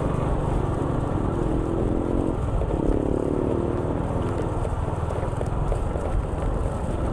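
A motor vehicle's engine running steadily with road noise, while another engine's tone swells briefly for about a second, a little over two seconds in.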